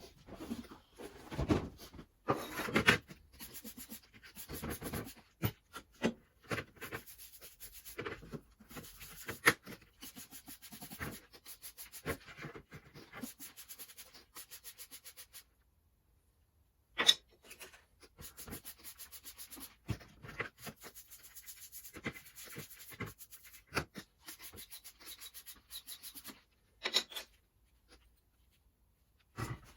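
Repeated hand scraping or rubbing strokes on a part, broken by a short pause about halfway, with a few sharp knocks, the loudest just after the pause.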